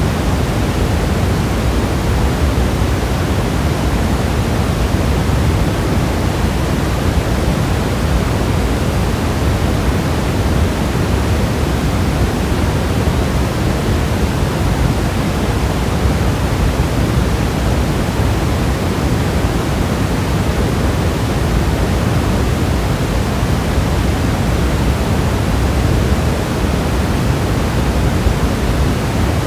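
Heavy steady rain, a dense, even hiss without separate drops or thunder.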